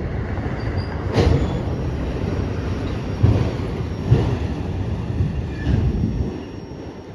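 A train rolling past with a steady rumble and a few sharp knocks from its wheels, dying away near the end as it passes.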